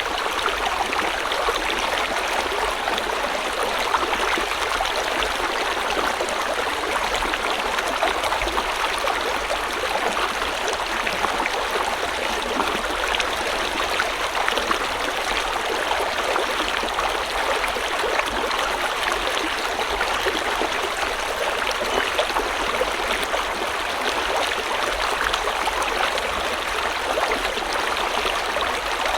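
River water flowing steadily over stones, a continuous rushing and babbling with fine splashy detail.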